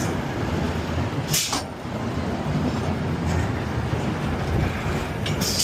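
Amusement ride in motion: a steady rumble with two short hissing bursts, one about a second and a half in and one near the end.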